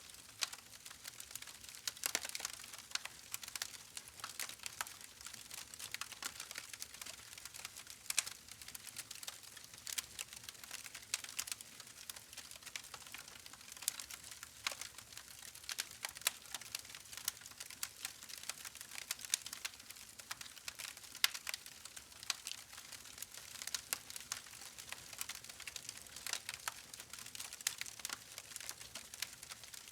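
Campfire burning: a steady soft hiss of flames with dense, irregular crackles and pops of burning wood.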